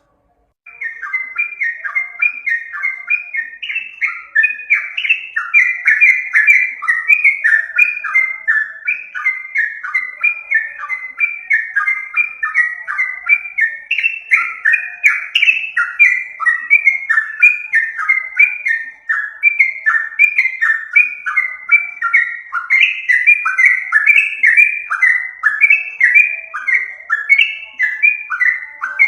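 Yellow-vented bulbul (trucukan) song: a fast, unbroken chatter of short, bright falling notes repeated several times a second, starting about a second in. It is a bird-trapping lure recording of the species' call.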